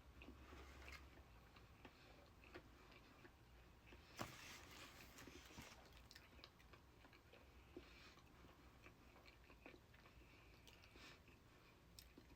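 Faint, close-up chewing and biting of food, with small wet mouth clicks scattered throughout and one louder bite about four seconds in.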